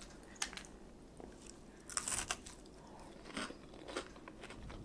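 A person biting into and chewing a piece of cooked fish, with a few faint crisp crunches, the clearest about two seconds in.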